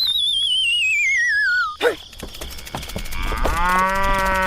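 Cartoon sound effects: a warbling whistle sliding steadily downward, a quick zip, then a short held, moo-like "huh?" voice sound about three seconds in.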